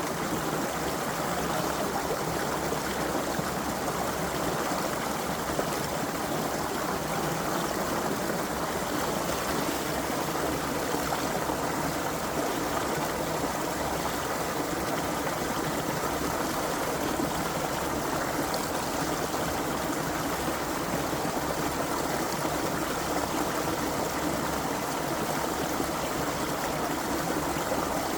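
Creek water flowing and babbling over stones, an even, steady rush.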